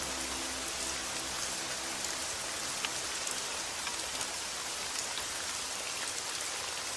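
Steady rain falling on a surface: a dense, even hiss with individual drops ticking sharply here and there. Faint soft music notes fade out in the first second or so.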